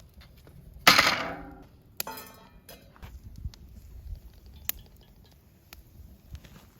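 Camp cookware clanking: a loud ringing clank about a second in, a second ringing clink a second later, then light scattered clicks.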